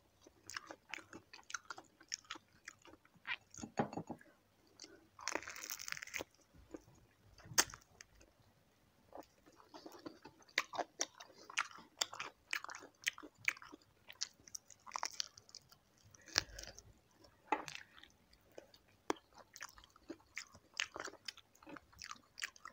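Chewing and biting into crispy fried chicken feet, close to the microphone: irregular crunches and crackles, with a longer crunch about five seconds in and a sharp crack a couple of seconds later.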